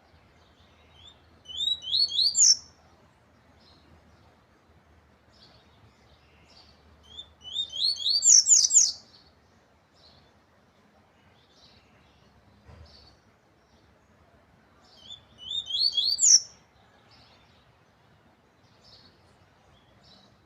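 Papa-capim (yellow-bellied seedeater) singing three short phrases about six to seven seconds apart, each a quick run of notes that climbs in pitch and ends high, with faint short calls between the phrases.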